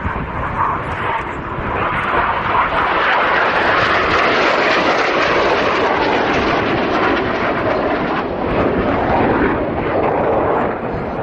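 Jet aircraft of the Red Arrows, BAE Hawk jet trainers, flying past in formation: loud, steady jet engine noise that builds over the first couple of seconds and eases slightly near the end.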